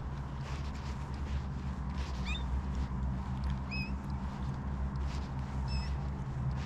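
Three short squealing bird calls, each bending up and down in pitch, over a steady low hum.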